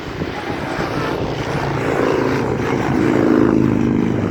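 Engine drone of passing road vehicles, growing louder over the first couple of seconds and then holding steady.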